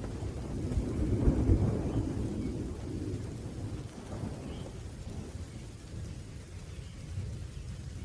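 Thunder rumbling over steady rain. The rumble is loudest about a second or two in, then dies away.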